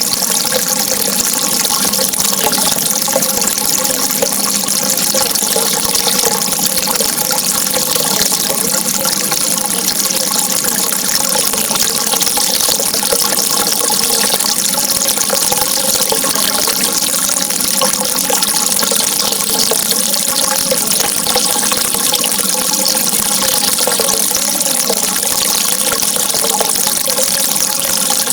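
Running water flowing steadily, a constant bright rush with a faint wavering undertone and no pauses.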